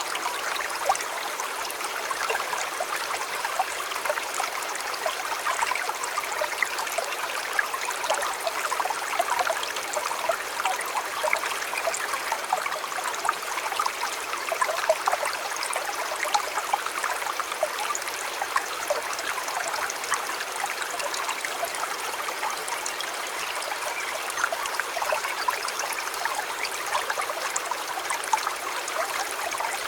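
A shallow stream flowing steadily, with a constant babble and many small splashes and trickles.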